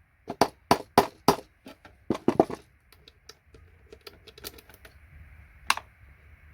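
Steel chisel knocking a thin IDE pin connector off a circuit board: a run of sharp metallic taps about three a second, a quick cluster of taps about two seconds in, then fainter scattered clicks and one sharp click near the end.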